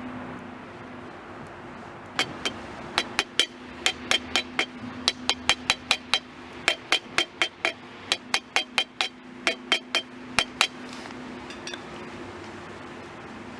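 A quick run of sharp knocks or taps, about three a second with a slight ring, starting about two seconds in and stopping near eleven seconds.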